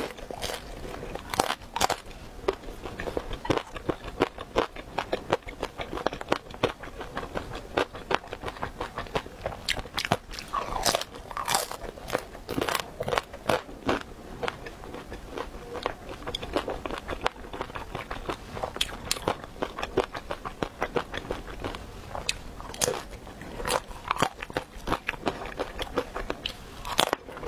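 Close-miked biting and chewing of crisp fried dumplings: an irregular run of crunchy, crackling bites and clicks.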